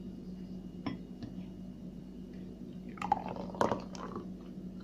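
Kefir being poured from its bottle into a glass, with a few light clicks and knocks of the container on the glass.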